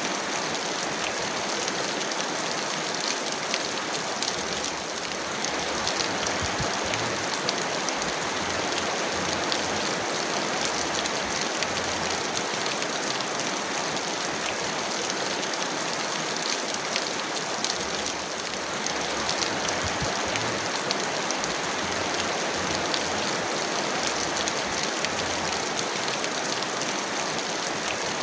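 Heavy rain falling steadily: a dense, even hiss of rain with many fine drop taps.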